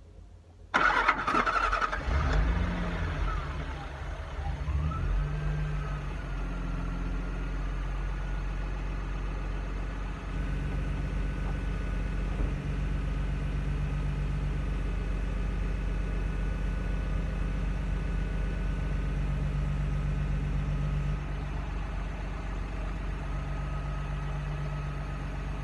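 Freshly rebuilt Nissan TB48DE 4.8-litre straight-six petrol engine starting up about a second in, revving briefly, then settling into a steady idle.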